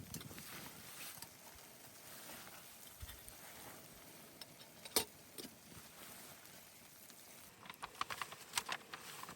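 Light clicks and knocks of small objects being handled: one sharp click about halfway, then a quick run of clicks near the end, over a low steady hiss.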